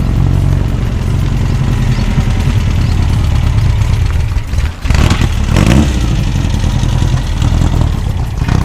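A motor or engine running steadily and loudly, with a noisier surge about five seconds in. It starts and cuts off abruptly.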